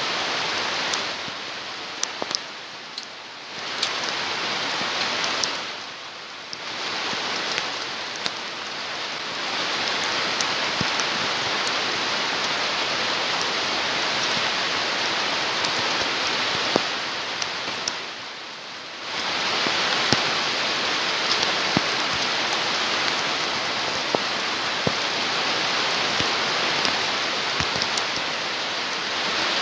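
Steady hiss of rain that drops away briefly three times, with scattered light clicks.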